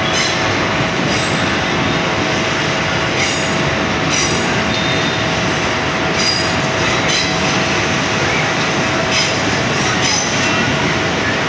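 KRL commuter electric train running along the station tracks: a steady rumble with a thin steady whine. Brief wheel clicks come about once a second, often in pairs, as the bogies cross rail joints.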